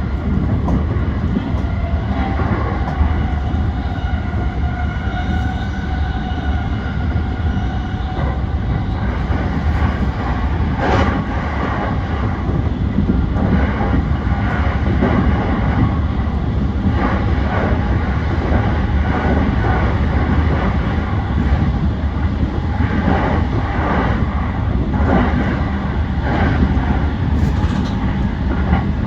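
Yokosuka Line E235 series 1000 electric commuter train running at speed, heard from inside the front car: a steady rumble with wheels clicking over rail joints in several runs. A faint pitched whine is heard in the first several seconds.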